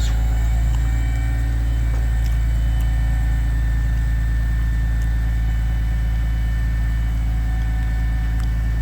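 Engine of a feller-buncher boom truck running steadily at a constant speed, a deep, even hum with a few faint clicks near the start.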